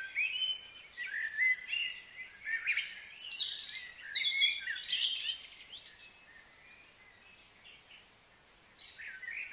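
Birds singing and chirping, a busy run of quick high notes that thins to a lull about six seconds in and picks up again near the end.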